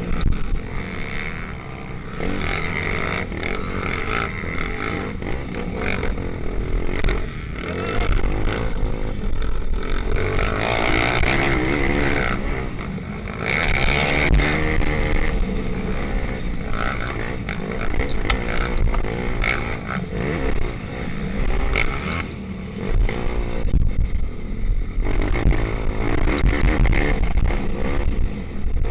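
Pit bike engines racing, their pitch rising and falling again and again as the riders work the throttle and shift gears.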